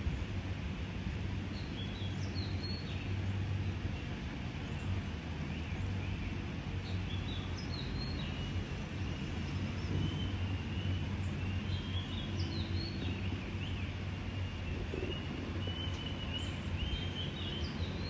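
Outdoor ambience: small birds chirping over and over above a steady low hum.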